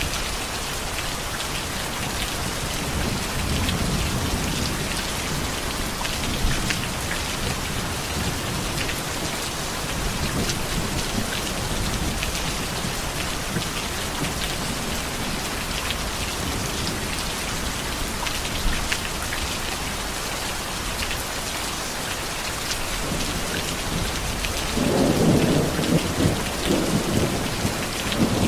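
Heavy, steady rain with rolling thunder: low rumbles a few seconds in and again near the middle, then a louder, crackling peal of thunder near the end.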